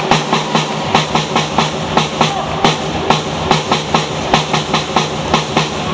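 Spectators in a sports hall clapping or beating in a fast, even rhythm, about four sharp beats a second, over a steady low hum.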